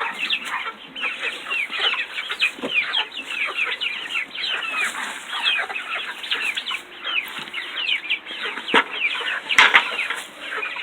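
A flock of chickens clucking and calling continuously, many short overlapping calls at once, with a couple of sharp knocks near the end.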